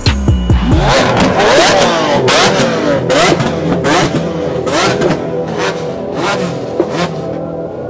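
Supercar engines revving hard in repeated quick blips, the pitch rising and falling again and again, with sharp cracks between the revs.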